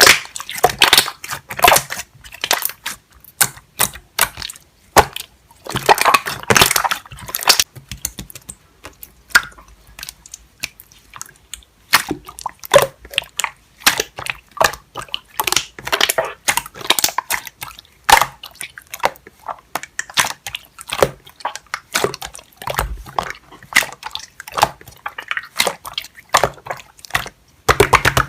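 Slime being squeezed and pressed by hand, giving an irregular run of sticky clicks, pops and squelches.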